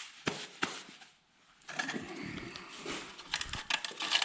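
Two sharp metallic clicks, then after a short pause a run of rustling and small clicks and clatter: hands working a piston and rod into the cylinder.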